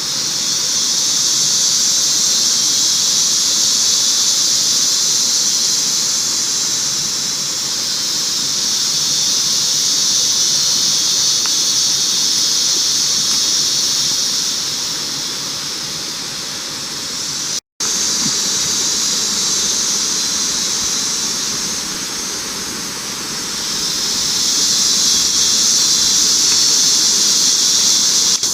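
A loud, high-pitched insect chorus in a tropical dry forest, a steady hiss that swells and fades in slow waves. The sound cuts out completely for an instant about two-thirds of the way through.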